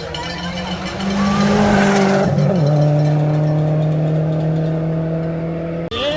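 Rally car engine held at steady high revs, its pitch stepping down a little over two seconds in.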